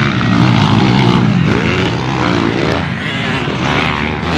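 Small dirt-bike engines running loudly, their pitch rising and falling as they rev.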